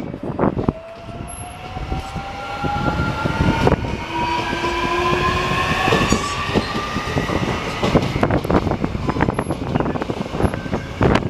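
Line 4 subway electric train pulling out, its motors giving a whine in several tones that climbs steadily in pitch as it speeds up, over a heavy running rumble. From about eight seconds in, the wheels clatter rapidly over the rail joints.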